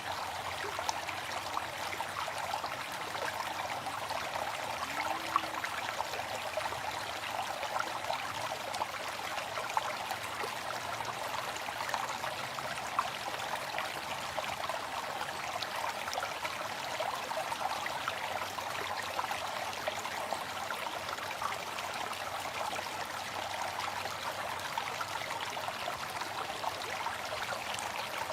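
Steady rushing and splashing of falling water from a waterfall, an even wash of water noise with small splashes flickering through it.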